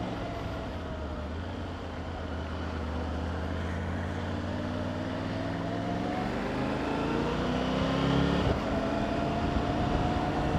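Motorcycle engine pulling up through the revs as the bike accelerates, its pitch rising steadily, then dropping suddenly about eight seconds in at a gear change and climbing again. A steady low wind rumble on the rider's microphone runs underneath.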